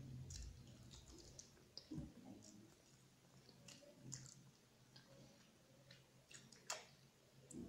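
Faint, scattered mouth clicks and smacks of chewing a handful of rice and chicken curry eaten by hand, with a sharper click near the end.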